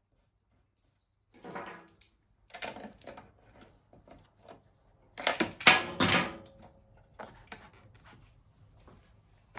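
Metal tools and small parts being handled, with clinks, knocks and rattles in several short bursts; the loudest comes about five to six seconds in.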